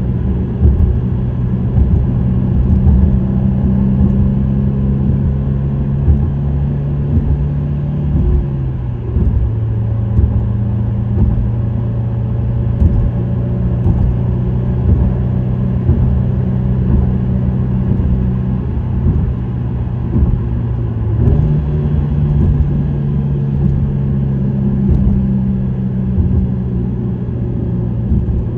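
Subaru WRX STI's turbocharged EJ20 flat-four with an STI Performance muffler, cruising at steady speed with its low exhaust drone over road noise. The engine note drops slightly about eight seconds in and rises again about twenty-one seconds in.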